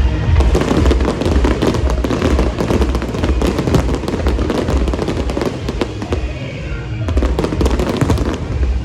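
Fireworks crackling in a dense run of rapid sharp pops that eases off about six seconds in and returns briefly about seven seconds in, over music with a steady low beat.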